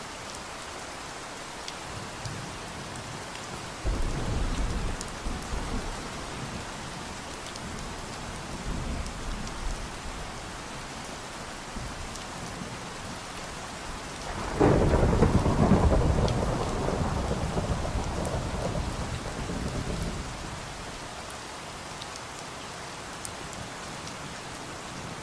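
Steady rain with rolling thunder: a rumble about four seconds in, and a louder peal starting suddenly about fourteen seconds in that rolls away over several seconds.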